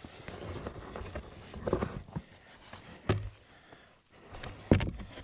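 Footsteps and scattered knocks and thumps as cabin panels are handled and set in place, with sharper thumps about 3 seconds in and near the end.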